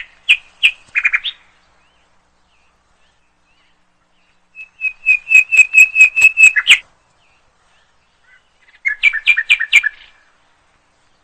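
Bird chirping: three short runs of quick, high repeated chirps, a few at the start, a longer run of about ten in the middle, and another quick run near the end, with silence between them.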